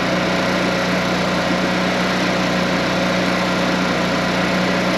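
A small engine running steadily at a constant speed, with an even hum and no change in pitch.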